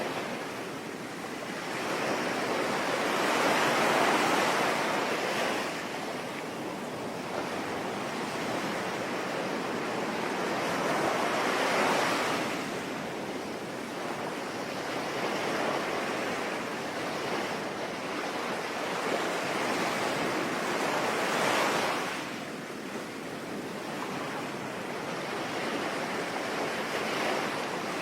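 Sea waves breaking and washing on a shore in slow surges, three swells building and falling back about eight to nine seconds apart, over a steady hiss of rain.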